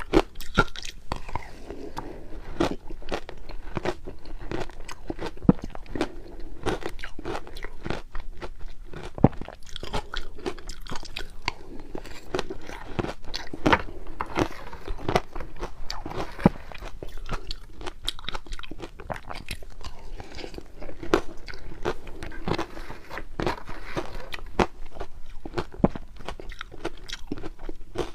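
Crushed ice being bitten and chewed close to the microphone: a dense, irregular run of sharp crunches.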